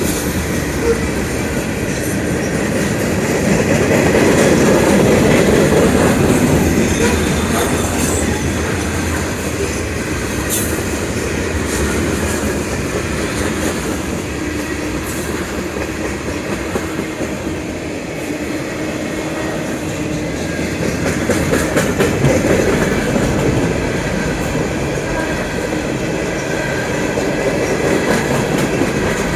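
Freight train rolling past, with a steady rumble of wheels on rail and scattered sharp clicks, swelling louder twice, about four seconds in and again a little past twenty seconds.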